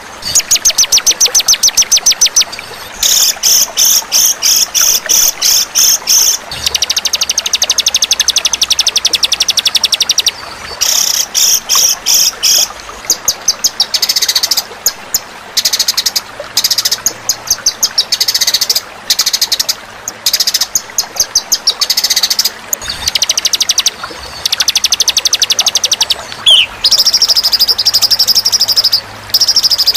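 Songbird masteran recording of white-rumped shama and 'fighter' birds: fast, high trills and buzzy rattles of rapidly repeated notes, in loud bursts of one to three seconds with short gaps between them.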